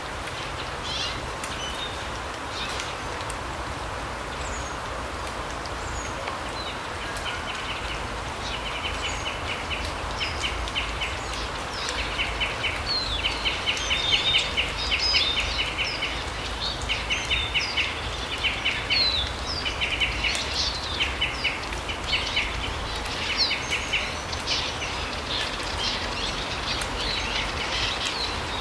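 Forest birds calling: scattered high chirps and, from about six seconds in, a repeated rapid rattling trill, over a steady rushing background hiss.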